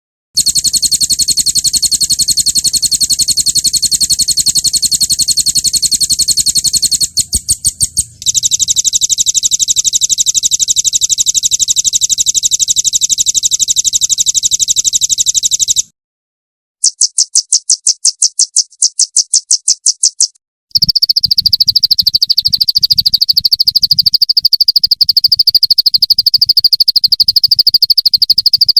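Recorded songbird song played back as a training track: very rapid, even rattling trills, high-pitched, in long spliced stretches that start and stop abruptly. There are brief silent gaps about halfway and two-thirds of the way through, and the last stretch is lower and steadier.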